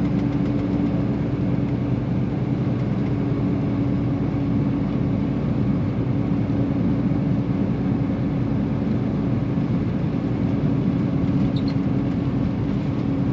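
Semi truck's diesel engine running steadily while driving, with road noise, heard from inside the cab: an even rumble with one steady hum that holds its pitch.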